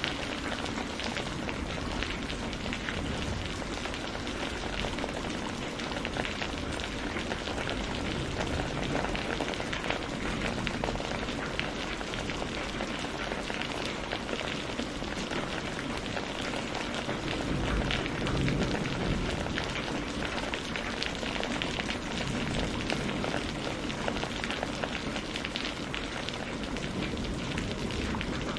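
Steady rain falling, with scattered small crackles and pops from a wood fire through it.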